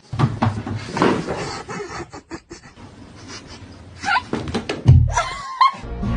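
Cats fighting: a scuffle of knocks and thumps, with a loud thump about five seconds in and short wavering cries about four and five and a half seconds in.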